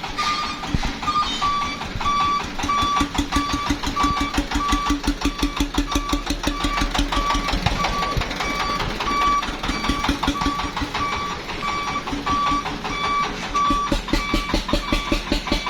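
Engine of a mobile rice-mill truck running with a rapid chug, while a reversing alarm beeps steadily about one and a half times a second.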